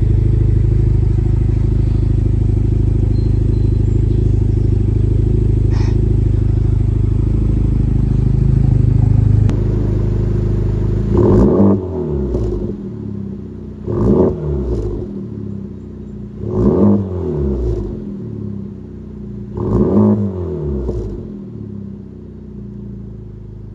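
Honda Civic Type R (FL5) turbocharged 2.0-litre four-cylinder through an AWE Track exhaust: a steady exhaust drone for about the first nine seconds, then four quick rev blips a few seconds apart, each climbing sharply and falling back.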